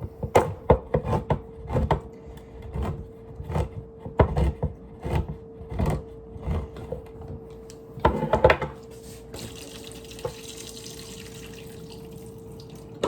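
Kitchen sounds of canned vegetables being handled: a run of clicks and knocks of metal cans for the first eight seconds or so. Then, about nine seconds in, a kitchen sink tap runs with a steady hiss of water.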